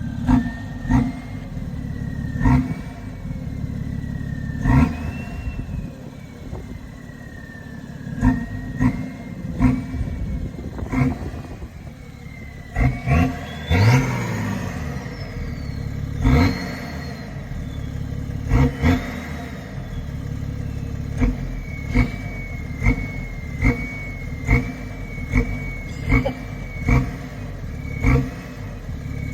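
BMW X5 E70 diesel engine revved in short repeated blips, its turbocharger whistling: the whistle jumps up with each rev and glides slowly down as the turbo spools down between them. Near the end the blips come about once a second, keeping the whistle up.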